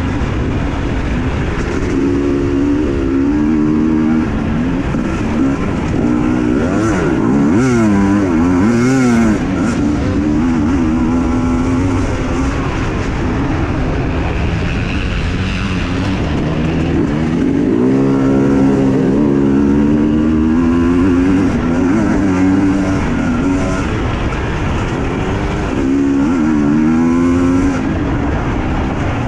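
Husqvarna TE 250i two-stroke enduro motorcycle engine under hard riding, its pitch rising and falling repeatedly as the throttle is opened and closed.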